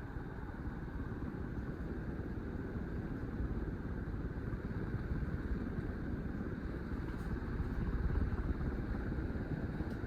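52-inch Hampton Bay Larson ceiling fan running on high, a steady rush of air from the blades with the breeze buffeting the microphone in low, uneven swells.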